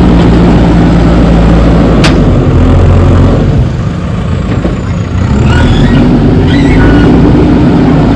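JCB 3DX backhoe loader's diesel engine running under load. It eases off for about two seconds in the middle and then picks up again, with a few faint high squeaks as it comes back up.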